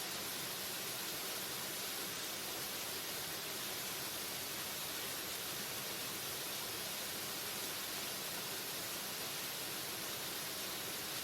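Waterfall: a steady, unchanging rush of falling water, heavy in high hiss.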